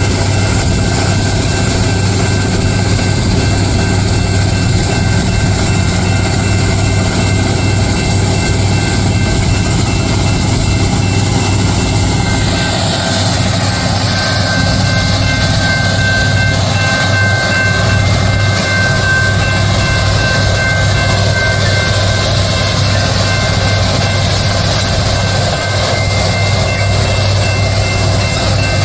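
Loram SBC-20 shoulder ballast cleaner working, cleaning the track ballast: a steady, loud diesel-machinery drone with several high steady whines over it, which grow stronger about halfway through.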